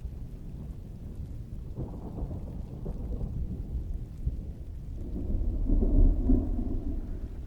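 Thunder rumbling low under steady rain, swelling to its loudest about six seconds in and then fading.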